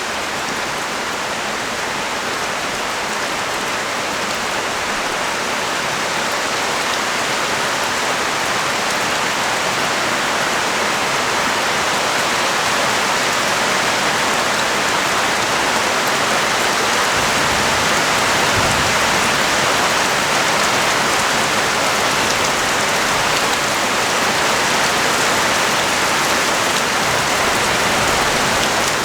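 Heavy rain pouring onto a street, a steady hiss that grows gradually louder.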